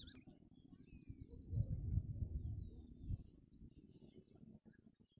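Small birds chirping and calling in short high notes, scattered through the whole stretch. Under them is a low rumble on the microphone, loudest from about a second and a half to three seconds in.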